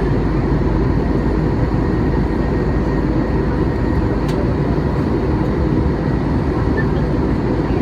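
Steady in-flight cabin noise of a Boeing 737-800: a low rumble of airflow and its CFM56 turbofan engines, with faint steady tones above it.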